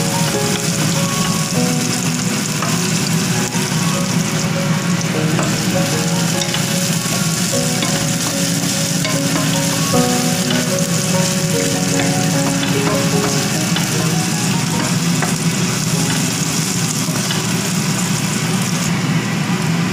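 Chopped garlic, onion and spring onion sizzling steadily in hot oil in a frying pan as they are stir-fried.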